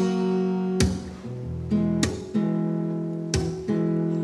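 Acoustic guitar strumming slow chords, a strum about every second, each chord left to ring.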